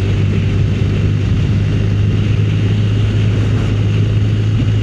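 Motorcycle engine running at a steady cruising speed, a constant low drone with wind and road noise.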